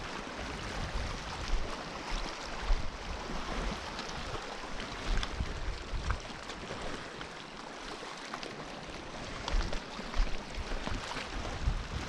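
Wind and water noise at the shore: a steady hiss with a few low gusts or thumps on the microphone and scattered small ticks.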